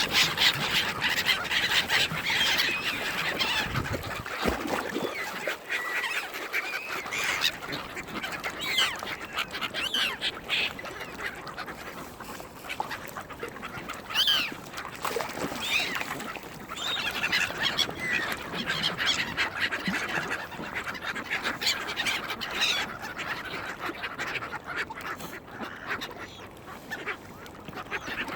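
A flock of waterbirds being fed, mallard ducks and gulls among them, calling over one another in many short, overlapping quacks and cries.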